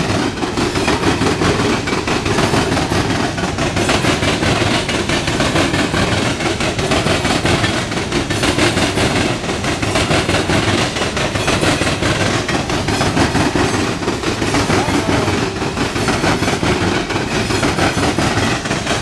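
Loaded coal hopper cars of a freight train rolling past: a steady, loud rumble and rattle of steel wheels on the rails.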